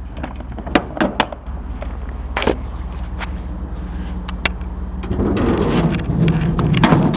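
Sharp metal clicks and knocks from a box truck's rear door and folding liftgate being closed and latched, over the steady low hum of the idling engine. About five seconds in, a louder, denser stretch of handling noise runs for about two seconds.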